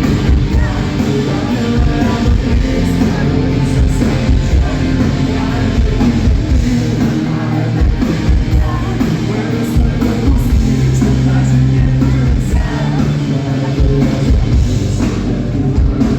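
Loud live rock band playing, with drum kit and guitars, and singing over it.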